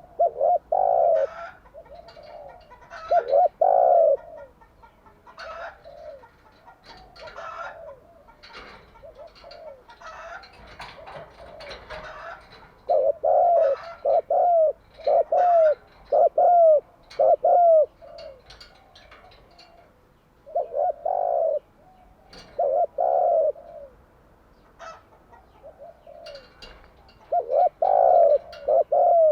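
Spotted doves cooing in repeated phrases of low, hollow coos, including a run of about six quick coos in the middle. Fainter chirps of smaller birds come between the phrases.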